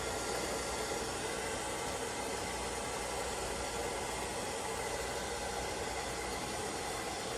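ILIFE V5s Max robot vacuum running, a steady whirring hum of its suction fan and brushes with a faint high whine.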